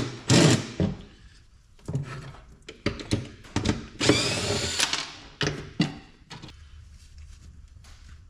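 A power drill run in short bursts: one right at the start and a longer one about four seconds in, its pitch shifting as it speeds up. Knocks and clunks of parts being handled fall between the bursts, and it goes quieter after about six seconds.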